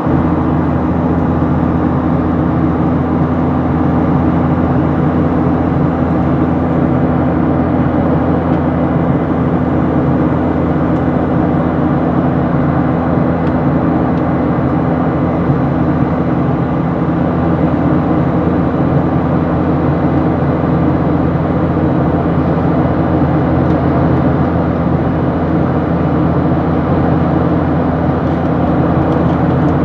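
Airliner cabin noise during takeoff: the engines running with a steady, unchanging hum and drone.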